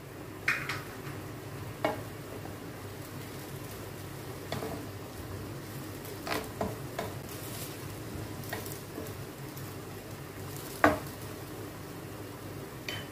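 Chicken, capsicum and green chillies sizzling steadily in sauce in a nonstick pan while a wooden spatula stirs them, scraping and knocking on the pan now and then, most sharply about eleven seconds in.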